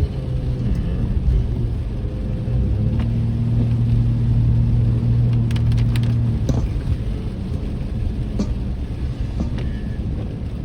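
Car driving, heard from inside the cabin: a steady low rumble of engine and road, with a steady low hum through the middle and a few sharp clicks about six seconds in.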